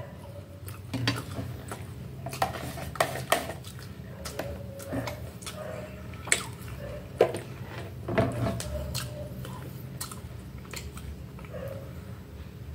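Close-up chewing and mouth sounds while eating, with a fork clinking and scraping on a metal tray a number of times, some strikes leaving a short metallic ring.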